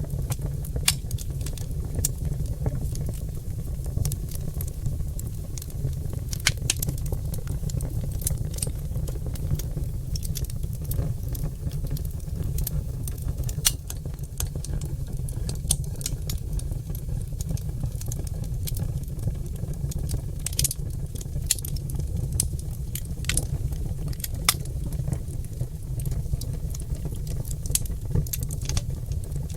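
Oak log fire crackling and popping: irregular sharp snaps scattered over a steady low rumble of the flames.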